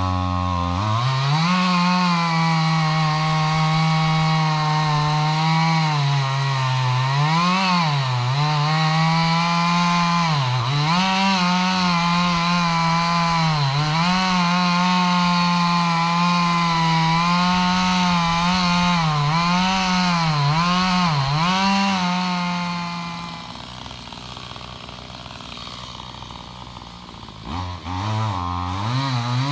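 Gas chainsaw running at full throttle in a cut, its pitch dipping again and again as the chain loads up in the wood. About 23 seconds in it drops back to idle, and it revs up again near the end.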